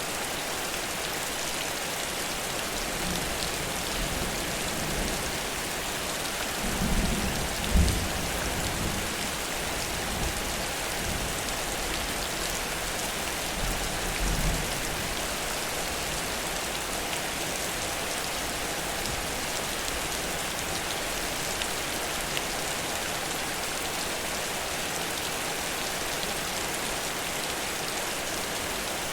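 Heavy rain falling steadily in a downpour. A low rumble or thump rises briefly about a quarter of the way in, and again near the middle.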